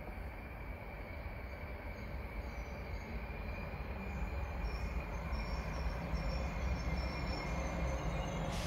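Train rumbling through the station and growing steadily louder as it approaches, with faint high squealing from the wheels on the rails. A short sharp click comes right at the end.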